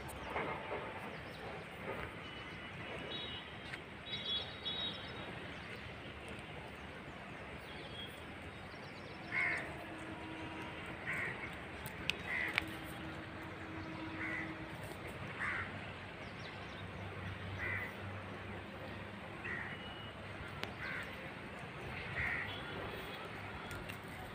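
A bird calling in a series of about a dozen short, harsh calls, roughly one a second, starting about nine seconds in, over steady outdoor background noise.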